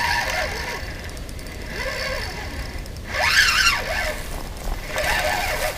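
Birds calling: several separate whistled notes that rise and fall in pitch, the loudest group about three seconds in.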